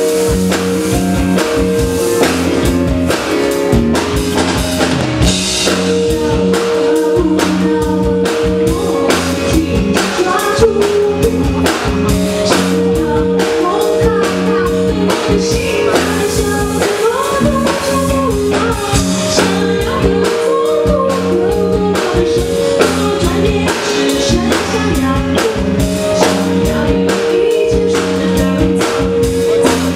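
Live rock band playing a song, drum kit driving a steady beat under held instrumental notes, with a voice singing in places.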